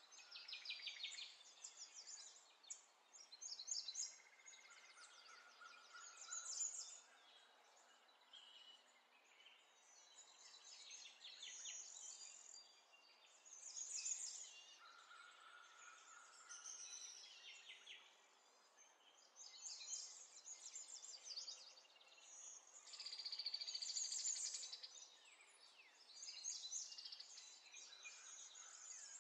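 Faint birdsong: quick high chirps and trills that come and go every few seconds, with a few short steady whistled notes among them.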